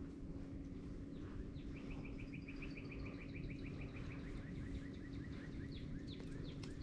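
A bird singing a long series of rapid chirping notes that slowly fall in pitch and spread out, over a steady low hum.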